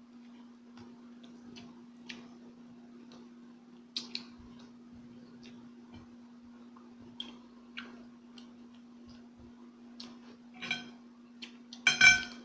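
Close-up eating sounds: scattered small clicks and smacks of chewing over a steady low hum, with two louder, brief pitched sounds near the end.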